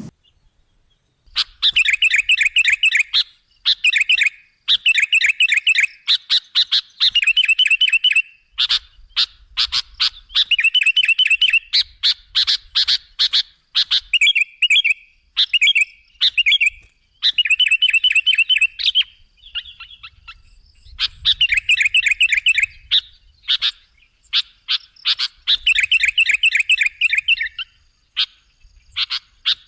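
Sooty-headed bulbul (kutilang) singing: phrases of quick chattering notes, each a second or two long, repeated one after another with short pauses between.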